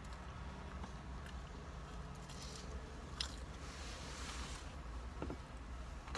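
Close-up mouth sounds of people chewing and biting fried chicken tenders and fries, with a few small clicks and crunches, over a low steady hum.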